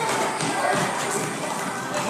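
A gym full of children playing: a steady babble of kids' voices over background music, with scattered light thumps and taps, echoing in the large hall.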